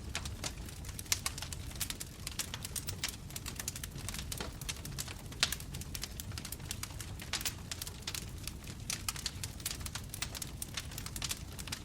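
Wood bonfire crackling, with many small irregular pops a second over a low steady rumble of the flames. A couple of louder snaps stand out, about a second in and again about five and a half seconds in.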